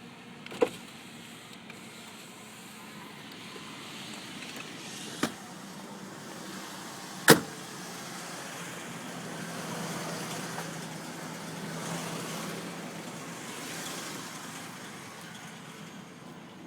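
2003 Ford Explorer engine idling steadily, with three sharp clicks or knocks, the loudest a little past halfway.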